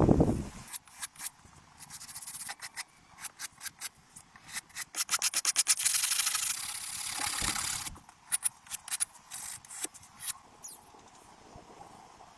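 Hand-worked scraping and rubbing on wood: irregular short strokes, a quick run of about five or six strokes a second near the middle, then a longer, louder scrape, growing quieter near the end.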